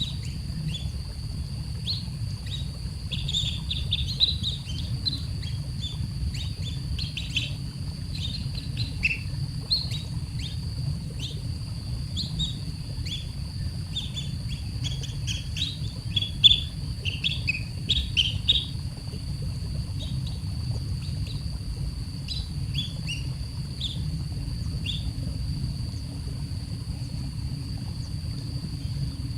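Baby bird chirping, many short high chirps in quick runs that thin out after the first two-thirds, over a steady low hum.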